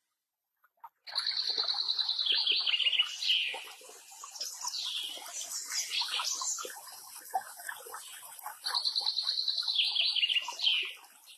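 Birdsong: a bird sings a fast run of high repeated notes that drops in pitch at the end, about a second in and again near nine seconds, with other chirps and short whistled glides in between.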